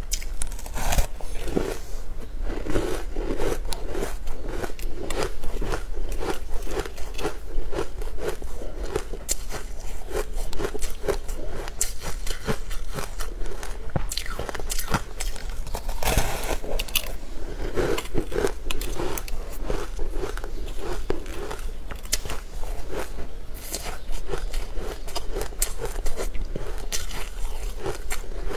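Close-miked eating: a person bites into a crumbly green food and chews steadily, with many small crunches and mouth clicks in a rhythmic pattern and a louder bite about halfway through.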